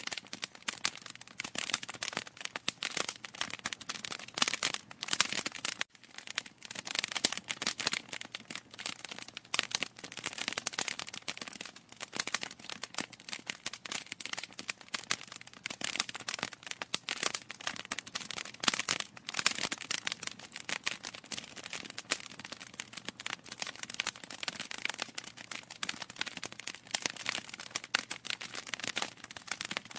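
Wood fire crackling in a fireplace: a dense, irregular stream of small pops and snaps from burning logs, with a momentary break about six seconds in.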